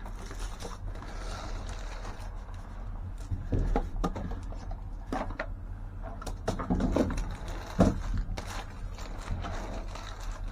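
Someone rummaging through boxes and packages of discarded office supplies in a dumpster: irregular knocks, rustles and scrapes, a few louder ones in the middle, over a steady low rumble.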